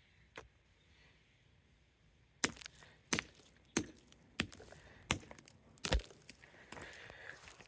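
Air-conditioner remote control being broken apart: about six sharp cracks, a little over half a second apart, starting a couple of seconds in, with smaller crackling between them.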